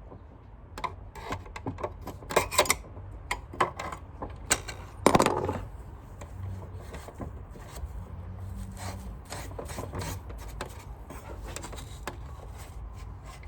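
Vacuum cleaner parts being handled and worked on: scattered clicks, knocks and rubbing, with the loudest knock about five seconds in. Quieter rubbing and a few light clicks follow.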